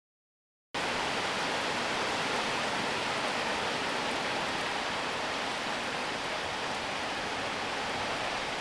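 Heavy rain falling, a steady even hiss that starts abruptly just under a second in after a moment of dead silence.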